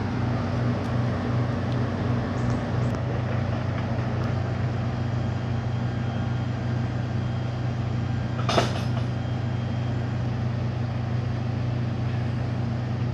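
Heavy truck's diesel engine idling at a truck depot: a steady low drone throughout, with one sharp clank about eight and a half seconds in.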